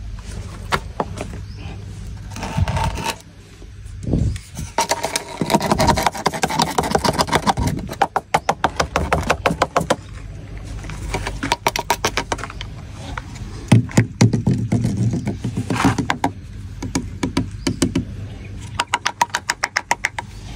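Plastic tube of Pif Paf insecticide powder being shaken over the ground, making runs of rapid light clicks, several a second, with short pauses between the runs.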